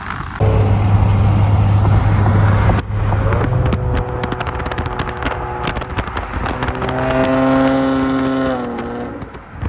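Car engine running and revving: the pitch is held steady, then drops just before the end, with short crackles along the way.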